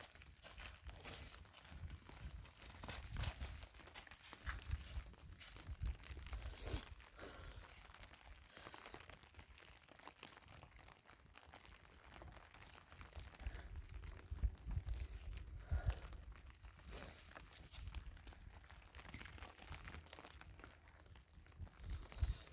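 Irregular crunching, like footsteps through snow, with low uneven rumbling from wind on the microphone.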